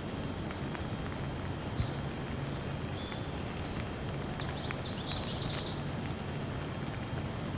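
Steady light rain hiss with scattered drips, and small birds chirping over it: short high calls through the first half, then a quick run of chattering notes about four and a half to six seconds in.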